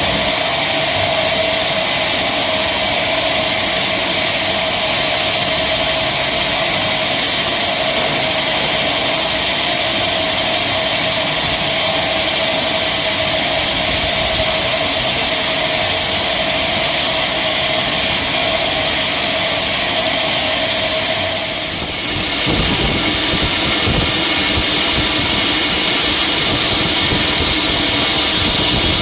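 Sawmill machinery running steadily with a high, even whine. About three-quarters of the way through the whine drops out with a brief dip in level, and a lower, rougher sound takes over.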